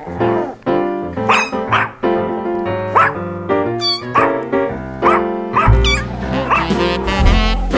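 Background music with held notes, over which a dog barks in short high yips, repeating about once a second; deeper bass notes come in about six seconds in.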